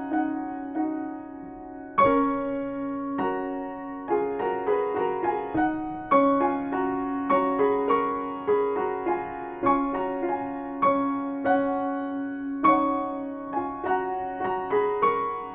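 Solo piano playing a slow, quiet piece, its notes struck one after another and left to ring and fade.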